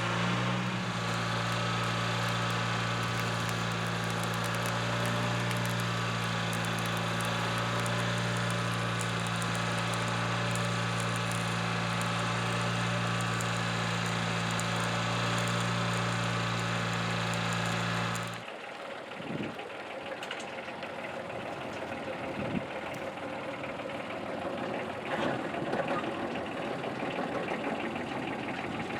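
Kubota diesel engine, newly swapped into a Mustang 1700 skid steer, idling steadily, then shutting off abruptly about eighteen seconds in. Quieter, irregular knocks and rattles follow.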